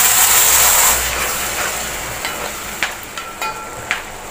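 Cooked chopped pineapple sizzling in hot ghee in an uruli on high flame. The loud hiss fades over the first couple of seconds as the liquid takes the heat. Near the end come a few light clicks and knocks of stirring against the metal pan.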